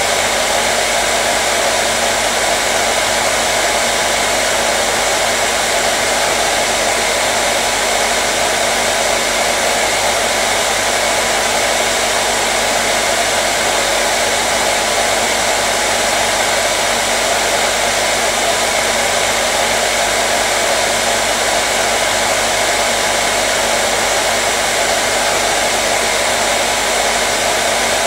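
Hair dryer running steadily, a constant loud rushing blow of air with a faint steady hum underneath, unchanging throughout.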